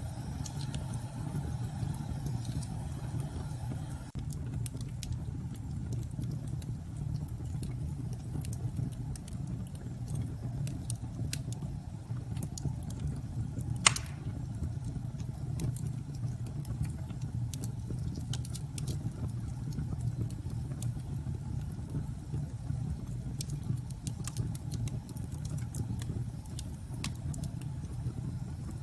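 Fireplace crackling, with scattered sharp pops and one loud crack about halfway through, over a steady low rumble of storm wind.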